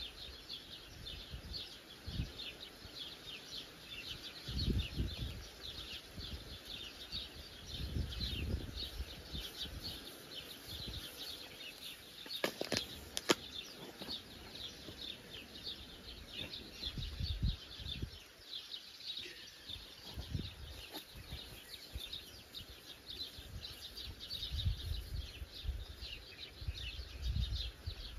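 Many small birds chirping and singing without a break, a dense chorus of rapid high chirps. Dull low thumps come now and then, and two sharp knocks sound about halfway through.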